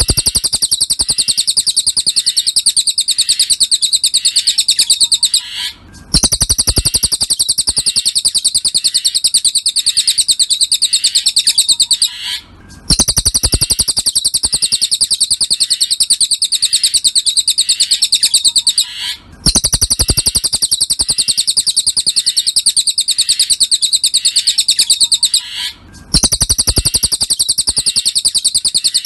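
Cililin bird singing a very rapid, high, even trill in phrases about six seconds long, each broken by a brief pause; the phrase repeats almost identically, as a looped song.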